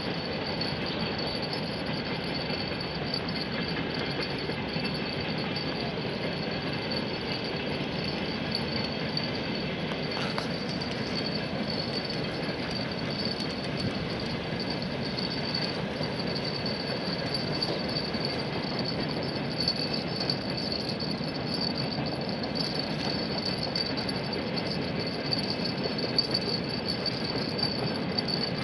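Freight train rolling steadily across a steel truss railway bridge, a continuous noise of wagons on the rails.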